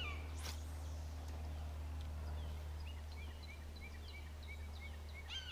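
A bird calling in a rapid series of short falling chirps, about three a second, from about halfway in, over a steady low rumble.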